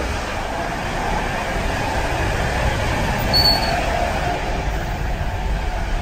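Steady low rumble of an ICR passenger coach in motion, heard from inside the carriage, with a brief high-pitched tone a little past halfway.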